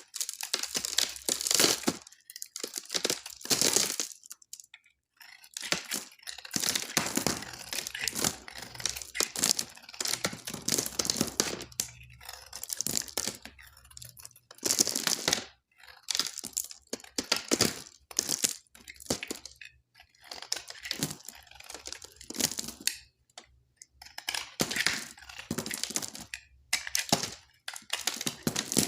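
Knife cutting through dry soap: crunchy, crackling strokes, each a second or two long, repeated with short pauses between them.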